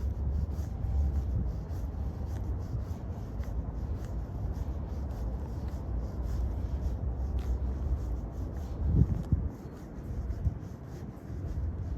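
Footsteps crunching on a gravel path at a walking pace, several scrapes a second, over a steady low city rumble. A louder low rumble swells briefly about nine seconds in.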